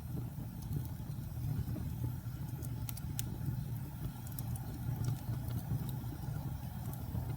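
Wood fire burning with a steady low rumble and scattered crackles, with a couple of sharper pops about three seconds in.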